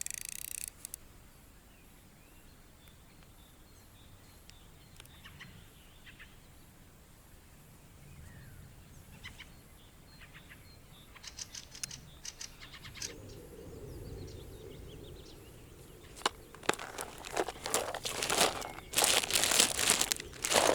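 Faint bird chirps over quiet outdoor ambience, then rustling and crackling that starts about ten seconds in and grows loudest in the last few seconds.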